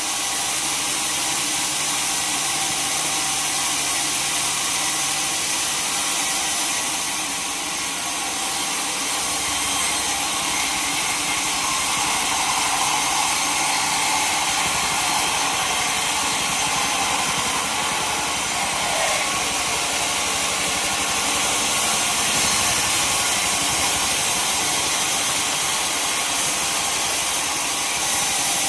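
Sawmill saw running steadily through wood, a continuous mostly high-pitched noise.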